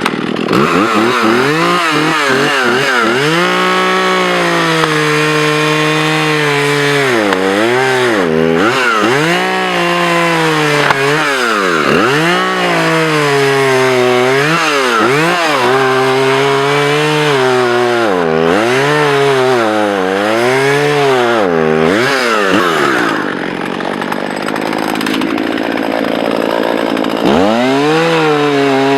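Two-stroke chainsaw cutting wood, throttled up and down over and over so its pitch rises and falls every second or two. About 23 s in it drops back to a lower, rougher sound for a few seconds, then revs up again near the end.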